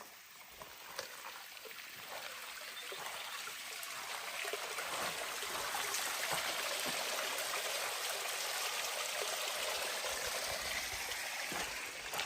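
Running water of a mountain stream or small cascade, a steady rushing that grows louder over the first few seconds and then holds even.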